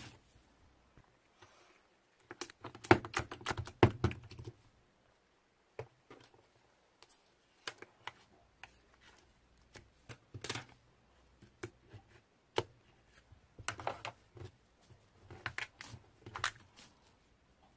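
Hands playing with slime: irregular clusters of small clicks and pops, densest and loudest about three to four seconds in, then scattered clicks.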